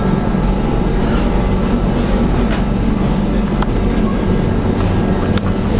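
Running noise of a train heard from inside a panoramic carriage: a steady rumble and low hum, with a few light clicks and one sharp click near the end.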